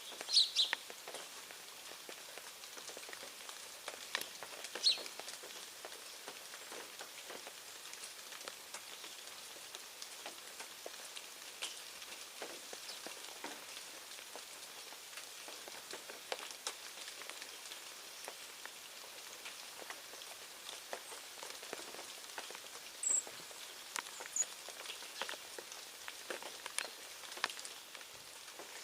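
A faint, steady patter of many scattered tiny ticks, with a few short, high bird chirps now and then.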